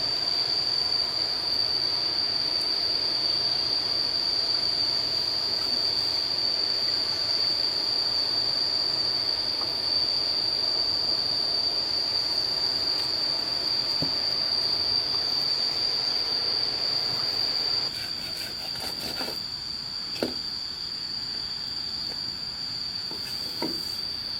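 Constant high-pitched insect drone, with a steady rushing noise beneath it that drops away about three-quarters of the way through.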